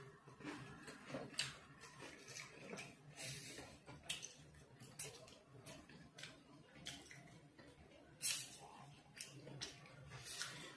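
Close-miked eating: chewing and mouth noises with irregular small clicks and smacks, and one sharper noise about eight seconds in.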